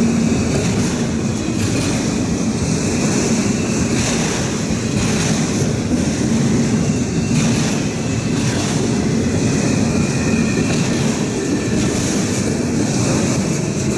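Norfolk Southern intermodal freight train rolling past close by. The rail cars' wheels make a loud, steady rumble on the track, with scattered clicks over the rail joints.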